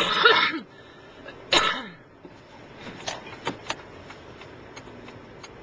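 Two short breathy bursts of a woman's voice, each dropping in pitch, about a second and a half apart. After them only a steady faint car-cabin hum with a few small clicks.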